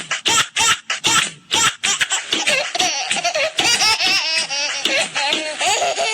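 A baby laughing: short breathy laughs about three a second for the first two seconds, then high squealing giggles whose pitch bends up and down.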